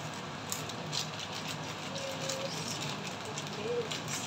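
Yakisoba noodles, cabbage and bacon sizzling in a frying pan, with a steady hiss and scattered small crackles.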